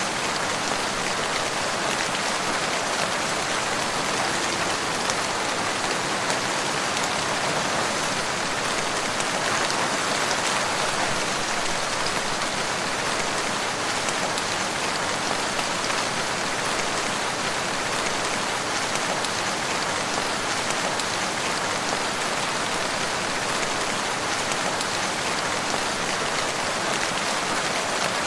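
Steady rain falling, an even hiss of drops with no change in level.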